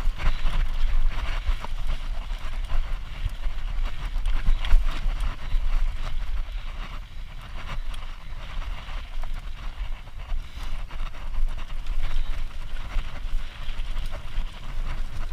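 Wind buffeting the microphone over the crunch and rattle of a hardtail mountain bike rolling down a loose dirt trail, with many small clicks and knocks from the tyres and frame.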